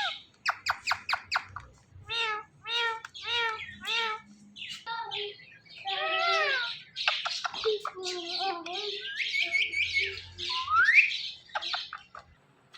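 Indian ringneck parrots squawking and chattering: a quick string of short calls, runs of repeated harsh calls, then a loud rising squawk near the end.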